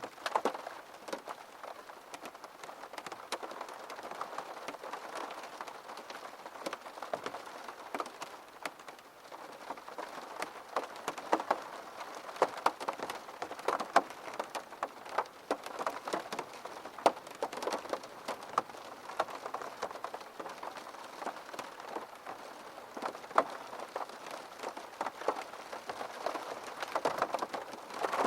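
Steady rain falling on a surface, a constant patter dotted with many sharp, distinct drop hits.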